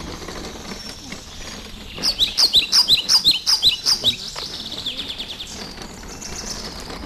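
Songbird singing: a fast run of loud, down-slurred chirps from about two seconds in to about four seconds in, with fainter chirping before and after.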